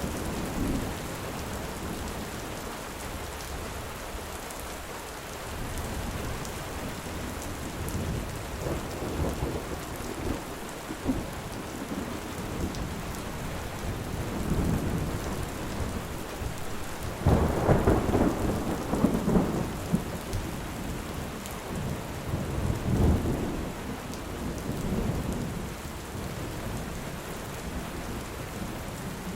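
Steady rain with thunder rumbling low under it. The loudest roll of thunder comes a little past halfway and lasts a few seconds, and a shorter rumble follows soon after.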